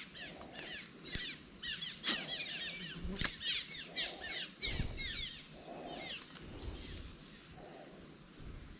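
Wild songbird calling: rapid series of short, falling chirps, fading out after about six seconds, with a few sharp clicks and a faint steady high tone behind.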